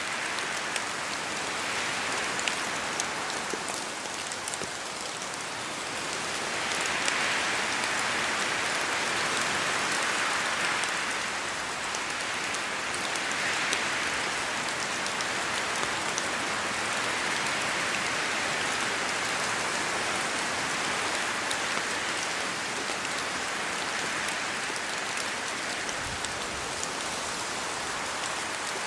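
Steady rain falling through forest trees, with distinct drops heard over the hiss. The hiss swells and eases slowly, with a stronger swell from about six to eleven seconds in, as wind moves through the trees.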